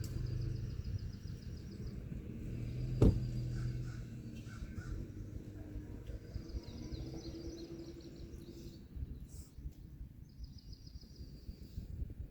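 Birdsong outdoors: a rapid, high trill repeated several times, each trill lasting about two seconds, over a low steady rumble. A single sharp knock comes about three seconds in.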